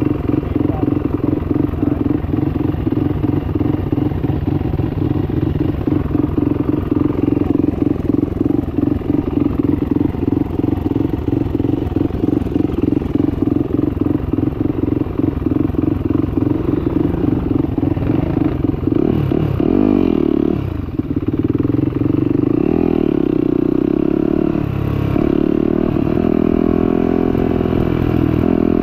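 Turbocharged 2021 Yamaha YZ450F's single-cylinder four-stroke engine idling with an even pulse, then revving about twenty seconds in as the bike pulls away and runs on at a steady speed.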